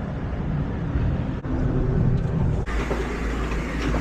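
Motorcycle engine running steadily. About two-thirds of the way through the sound changes abruptly and a deep low rumble takes over.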